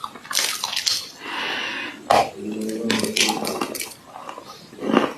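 Crunchy clay being bitten and chewed close to the microphone: a run of sharp, crisp crunches, with a short voice-like hum about two seconds in.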